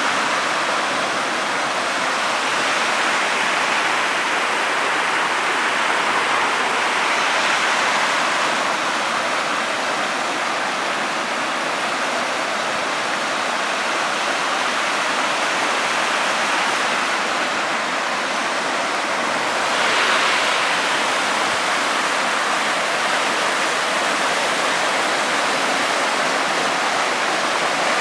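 Small waterfalls on the river Töss rushing steadily, the river swollen after rain.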